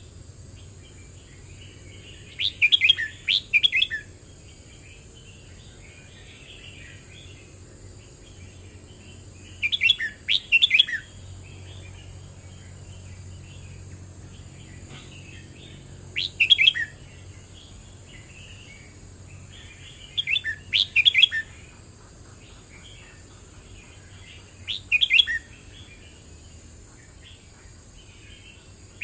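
Red-whiskered bulbul singing: five short loud song phrases a few seconds apart, with soft twittering between them. A steady high hiss runs underneath.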